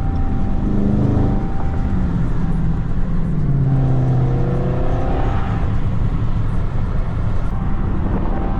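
Dodge Charger Scat Pack's V8 engine pulling away under throttle, revs climbing twice over the rumble and road noise.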